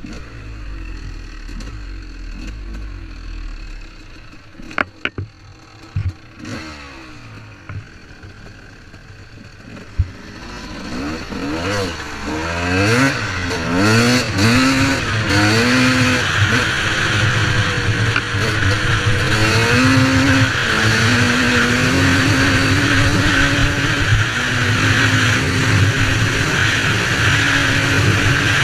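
Two-stroke Honda CR125 motocross engine during its break-in. A few knocks come first, then about ten seconds in the engine runs, revved up and down in short blips before holding a steady high rev.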